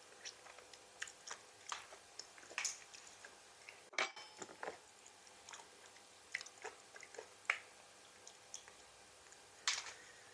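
A person chewing and biting crunchy food, most likely raw vegetables eaten with seafood som tam. Irregular crisp crunches come close to the microphone, with the loudest about 4 s in and again near the end.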